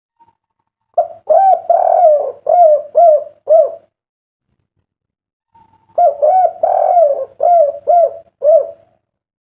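Spotted dove (derkuku) cooing two song phrases, each a long coo followed by three short 'kuk' notes, the three-note 'kuk 3' song type.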